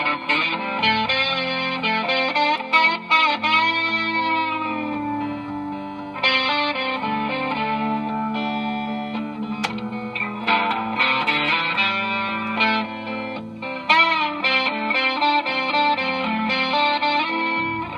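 Gretsch G3161 hollow-body electric guitar played through a Fender Excelsior tube amp: a run of single-note lines with several string bends.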